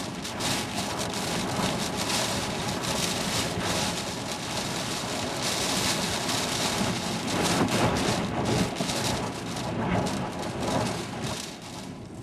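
Storm wind and heavy rain: a dense rushing noise that swells and eases in gusts, loudest about eight seconds in and dropping off near the end.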